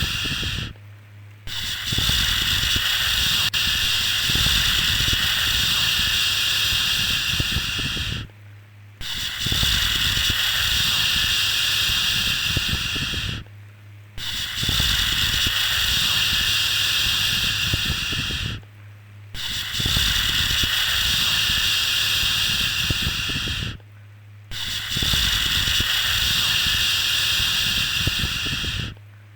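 Long, steady 'shhh' shushing sounds for soothing a baby to sleep, each held for about four to six seconds, separated by short breaks of under a second and repeating evenly.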